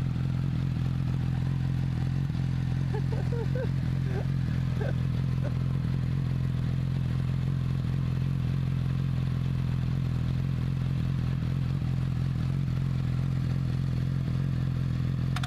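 2017 Yamaha R6's 600cc inline-four engine idling steadily at an even pitch.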